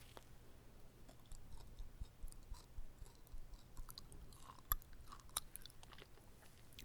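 Close-miked chewing of a whole, uncut kimbap roll: irregular wet mouth clicks and soft crunches, with one sharper click about two-thirds of the way through.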